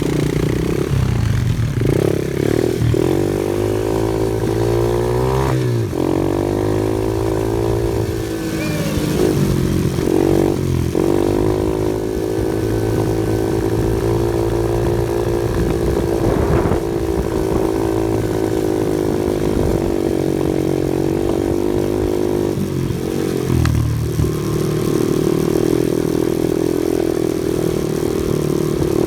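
Off-road vehicle engine running under way, its pitch dipping and rising several times with throttle or gear changes, and holding steady for a long stretch in the middle.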